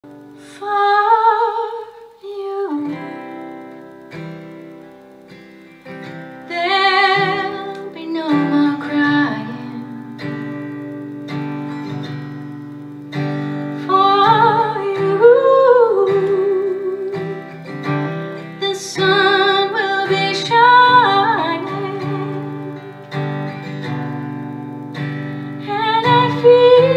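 A woman singing a slow song with wide vibrato over guitar. The first phrase is sung alone, and the guitar comes in about three seconds in.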